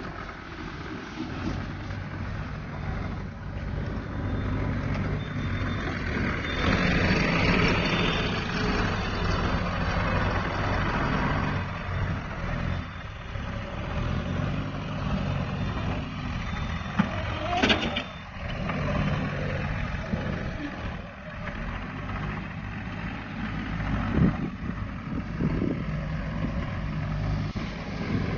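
Tractor engine running steadily, with a couple of sharp clicks or knocks in the second half.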